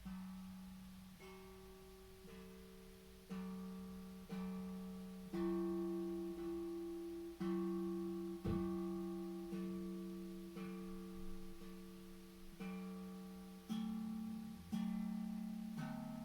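Steel tank drum played slowly: single notes struck about once a second, each ringing on and overlapping the next over a sustained low tone.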